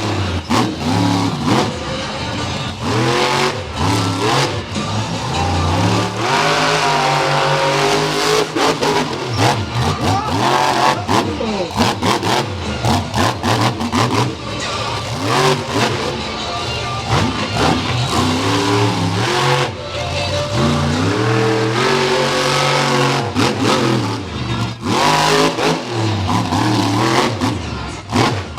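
Monster truck engine revving hard, its pitch climbing and falling again and again as the throttle is worked.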